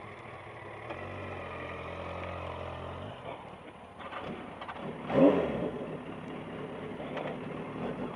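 Motorcycle engine and wind noise heard through the rider's helmet microphone while riding at a steady speed, with a brief louder sound about five seconds in.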